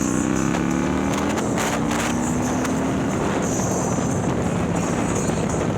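Harley-Davidson Milwaukee-Eight V-twin, bored out to 130ci and breathing through a ThunderHeader exhaust, pulling under acceleration as heard from the rider's seat. Its pitch climbs through the first second and a half, then the engine note levels off beneath rushing wind.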